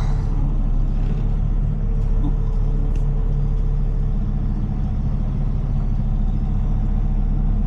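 Heavy tow truck's diesel engine running steadily, a low drone with a couple of faint clicks.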